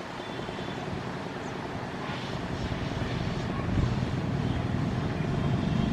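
Passing train: a steady rumble and rushing noise, with no horn, that grows louder from about halfway through.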